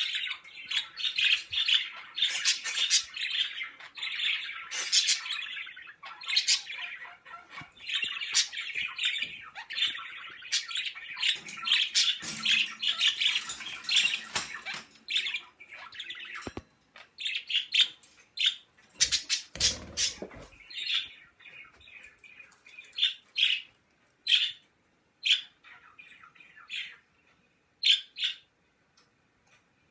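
Several pet birds chirping and squawking, a dense run of rapid calls for the first half that thins to scattered calls later on. A brief low rumble, like handling or a bump, about two-thirds of the way through.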